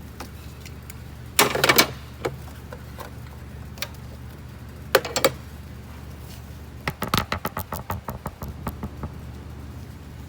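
Hand tools clinking and clattering against metal in an engine bay during spark plug work, with a short clatter about a second and a half in, another about five seconds in, and a run of quick irregular clicks near the end, over a steady low hum.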